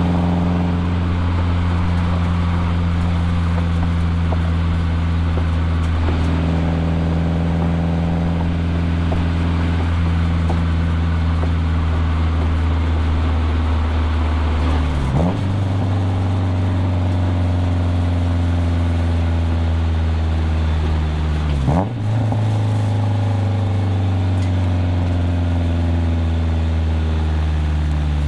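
1997 Nissan 240SX's 2.4-litre KA24DE inline-four running under way through a cat-back exhaust. It has two quick gear changes about 15 and 22 seconds in, and the revs fall slowly near the end.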